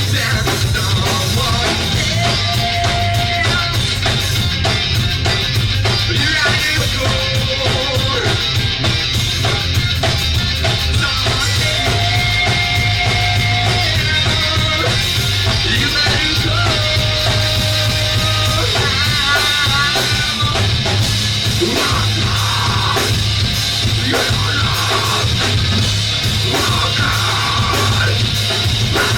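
Rock band playing live and loud, with drums, bass and guitars. Over them runs a melody of long held notes that may be sung, with a wavering, vibrato-like line about two-thirds of the way through.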